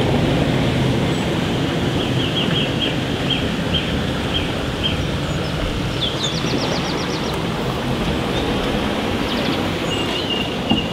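Small birds chirping: a string of short repeated chirps, a quick trill about six seconds in, and more chirps near the end, over a steady rushing noise that is the loudest sound throughout.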